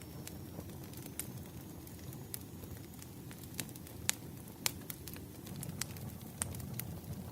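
Wood fire burning: a steady low rumble with sharp, irregular crackles and pops from the burning logs.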